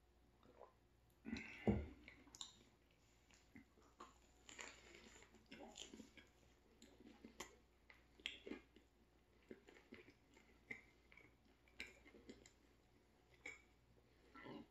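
Close-up chewing of a soft turkey sandwich, with wet mouth smacks and small irregular clicks. A single low thump about a second and a half in is the loudest sound.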